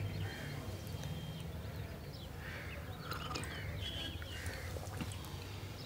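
Quiet room tone with a low steady hum and faint, scattered bird chirps.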